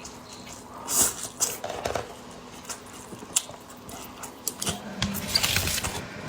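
Eating noises: chewing and slurping of noodles, with light clicks of chopsticks against a plate.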